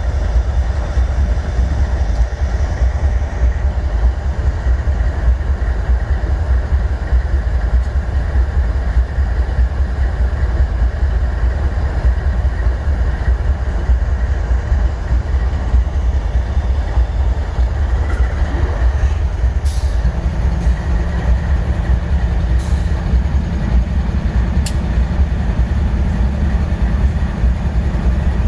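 GE diesel locomotive's engine running with a steady low rumble; about two-thirds through, its air compressor cuts in with a rising "whoop", then keeps running as a steady low hum over the engine.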